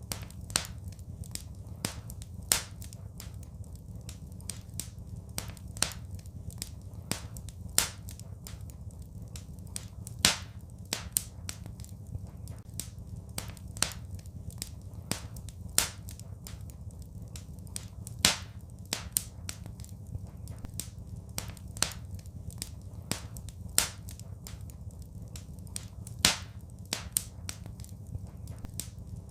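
Wood fire crackling: irregular sharp pops and snaps, a few louder ones every two to three seconds, over a steady low rumble.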